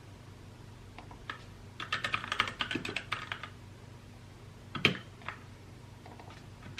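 Typing on a mechanical keyboard: a few scattered keystrokes, then a quick run of rapid clicking for about a second and a half, a single louder keystroke about five seconds in, and a few more keys near the end.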